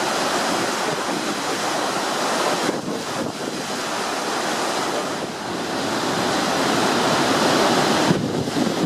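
Wind rushing over the microphone with a steady wash of water aboard a moving car ferry. The noise eases briefly twice.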